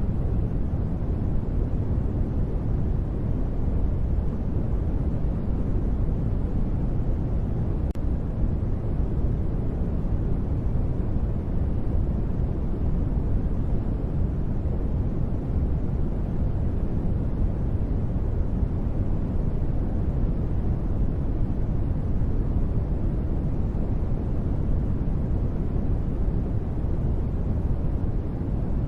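Continuous steady noise sold as white noise for sleep, weighted toward the low end so it sounds deep and rumbly rather than hissy, with no change in level or pitch.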